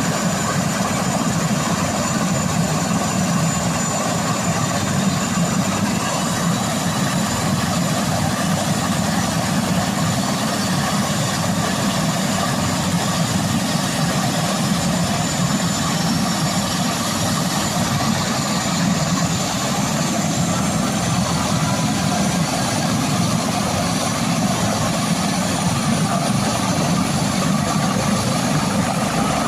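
Helicopter running steadily, its engine and rotor noise constant throughout.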